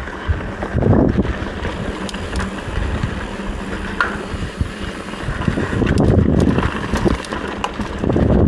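Wind buffeting the microphone during a mountain-bike ride, a steady low rumble with a few sharp clicks from the bike over the trail.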